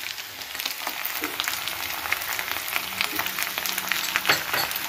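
Spiced mashed-potato filling sizzling in oil in a kadhai, with scattered light crackles and a few clicks of a wooden spatula against the pan.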